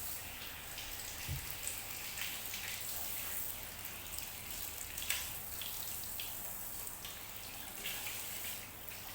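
Water pattering and dripping: a steady hiss with irregular small splashes.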